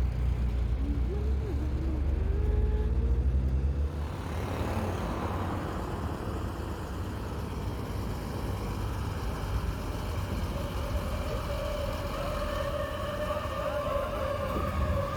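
Heavy truck engine and traffic noise. A deep engine rumble for the first few seconds gives way to a broad rush of road noise, and a steady whine comes in near the end.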